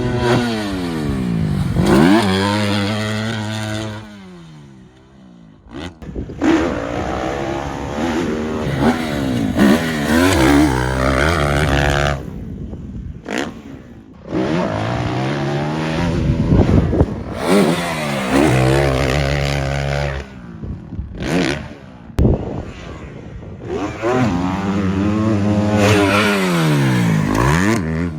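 Dirt bike engines revving hard and easing off, the pitch sweeping up and down repeatedly as the bikes accelerate, shift and pass by. The engine sound drops out briefly about four, twelve and twenty-two seconds in.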